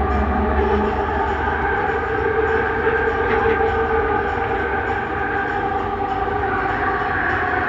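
Steady running noise inside a Bombardier Innovia Metro 300 train at speed, with several steady whining tones from its linear induction motor drive over the rumble of the ride.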